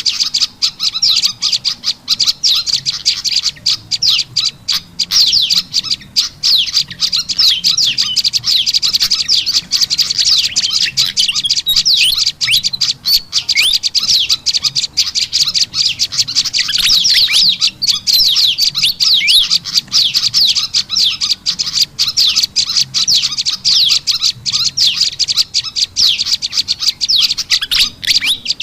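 Dense, unbroken chatter of small songbirds: a bird-lure recording of prenjak lumut calls mixed with agitated, noisy fantail calls. Rapid, high chirps and trills overlap one another without pause.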